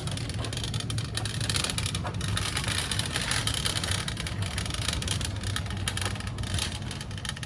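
Metal shopping cart rolling and rattling over the store floor: a continuous clattering rumble with many small irregular clicks.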